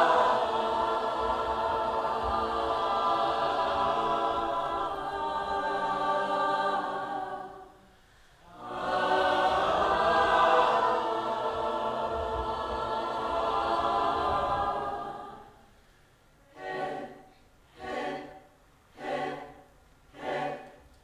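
A group of voices singing unaccompanied in two long held phrases, with a short pause between them. Near the end the voices break into short repeated notes, about one a second.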